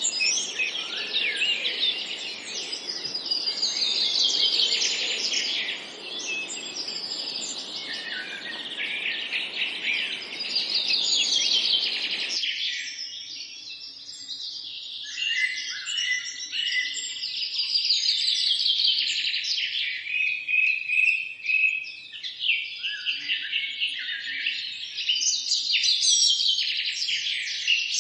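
Several songbirds chirping and singing at once in a dense, overlapping chorus of quick trills and twitters. A soft background hiss under the birds stops abruptly about halfway through, leaving the birdsong alone.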